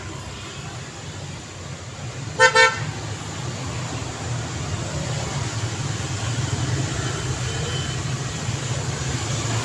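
Road traffic running steadily, with a vehicle horn giving two quick toots about two and a half seconds in. The traffic noise then grows gradually louder as vehicles pass.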